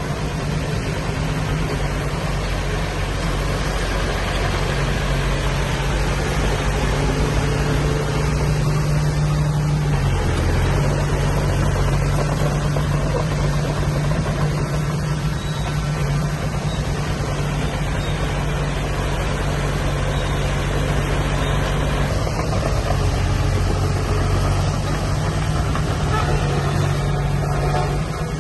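Diesel engine of earth-moving machinery running steadily under load, its pitch rising and falling as it is worked, with a brief drop about ten seconds in.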